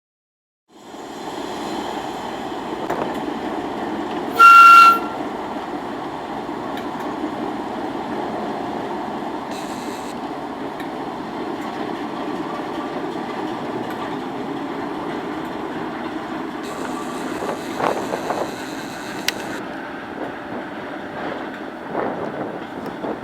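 British Rail Class 08 diesel shunter running, its English Electric six-cylinder diesel engine working steadily. A short, loud horn blast sounds about four seconds in, and a few knocks come near the end.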